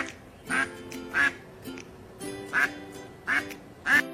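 Duck quacking, about six short quacks at irregular intervals, over light background music.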